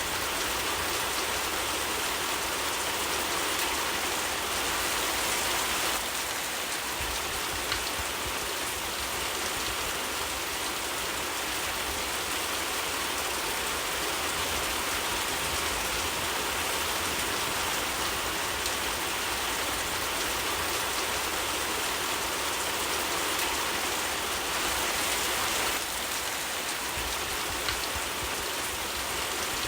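Steady rainfall, a dense even hiss, with a couple of faint clicks.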